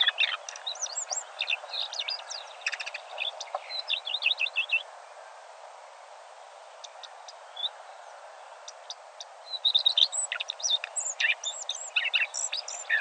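Several songbirds singing, quick chirps and trills with a lull in the middle before they pick up again near the end, over a steady background hiss.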